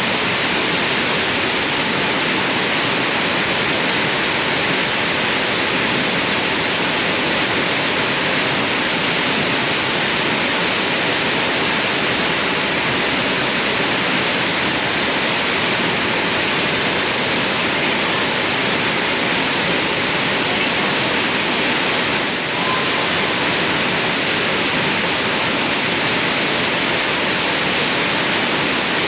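Waterfall, water crashing down in a loud, steady rush.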